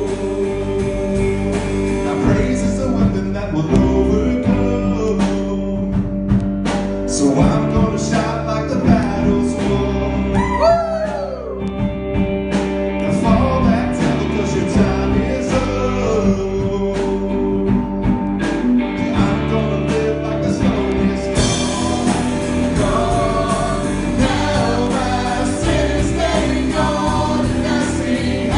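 Christian worship song: sung vocals over instrumental backing, playing continuously.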